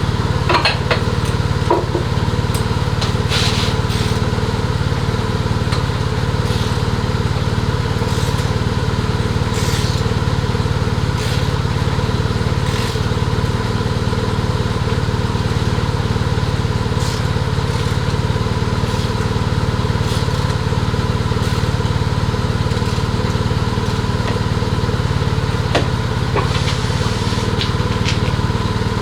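Motorcycle engine idling steadily, with scattered short clicks and taps from an oil filter tool working the oil filter housing loose.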